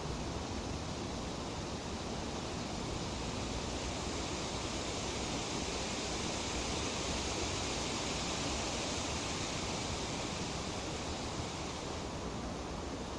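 Breeze rustling through tree leaves, a steady hiss that swells with a gust over the middle few seconds and eases off near the end.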